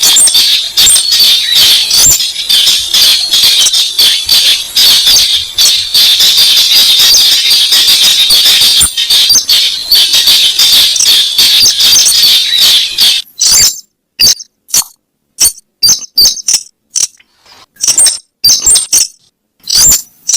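Recorded lure call of the weris bird: a fast, continuous rattling chatter that breaks about two-thirds of the way through into short, separate bursts of notes with gaps between them.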